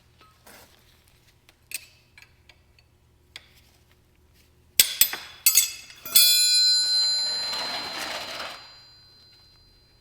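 Metal objects clinking lightly a few times, then knocking sharply twice, then a loud metallic clang about six seconds in that rings and rattles and fades over a couple of seconds.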